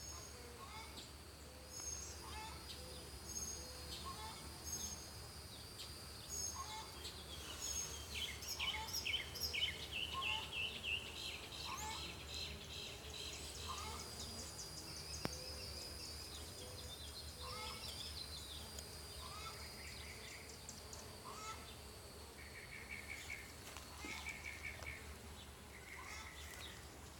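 Faint outdoor birdsong: one bird repeats a short call about once a second while others chirp higher in short runs, over a steady high insect drone.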